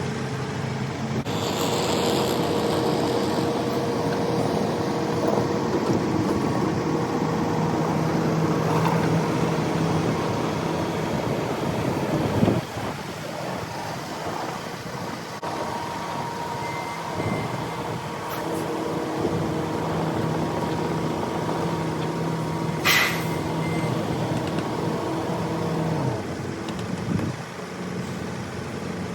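A motor vehicle's engine running steadily, its hum shifting at about 12 seconds and easing near the end. Two short high beeps come in just past the middle, followed by a sharp click with a brief tone.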